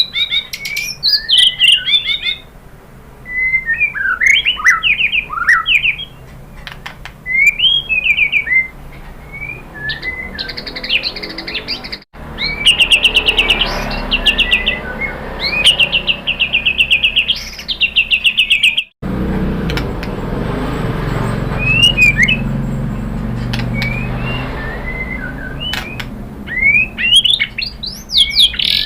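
White-rumped shama (murai batu) singing, with varied whistled phrases that sweep up and down. The song is spliced from separate recordings: it cuts abruptly about twelve seconds in to a fast run of rapidly repeated notes, then cuts again about seven seconds later to sparser phrases over a steady background hiss.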